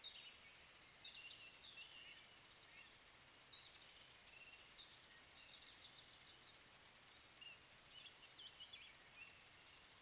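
Near silence: a steady faint hiss with scattered faint, high-pitched chirping calls of small birds, coming in little bursts a few times.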